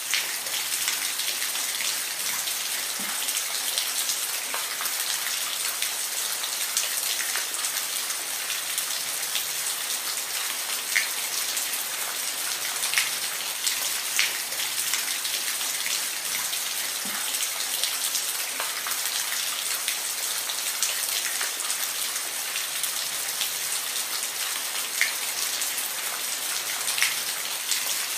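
Steady rain falling: an even hiss, with single drops tapping out clearly now and then.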